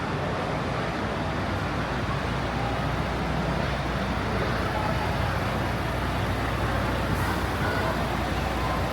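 A vehicle engine running steadily, a constant low hum with an even noise over it, and faint distant voices.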